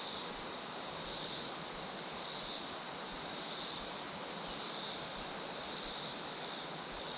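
Creek water running steadily, with a continuous high-pitched chorus of insects over it.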